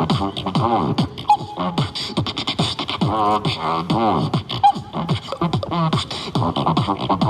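Beatboxing: rapid mouth-made kick, snare and hi-hat clicks in a steady rhythm, with repeated vocal bass sweeps that slide down in pitch.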